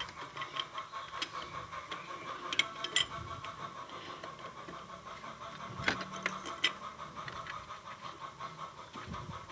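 A few sharp metallic clicks and taps of a 17 mm wrench working the engine coolant temperature sensor as it is tightened into the engine, over a faint steady high hum.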